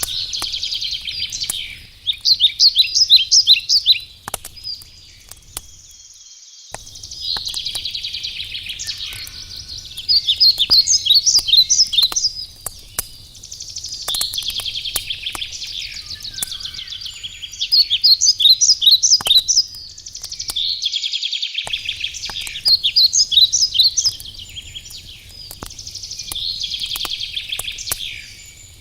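A songbird sings repeated phrases of rapid chirps and trills, one phrase about every four seconds, over the scattered pops and crackle of a wood fire burning.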